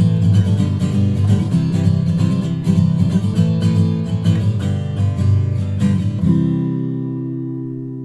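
Acoustic guitar music with a strummed rhythm, ending about six seconds in on a final chord that rings out and fades.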